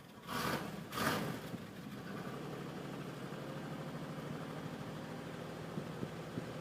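Car engine cold-starting in freezing weather: two short loud surges about half a second and one second in, then it settles into steady running.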